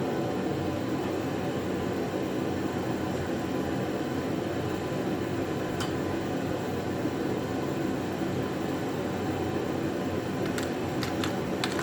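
Steady mechanical hum filling the room, with a light click about six seconds in and a few more clicks near the end.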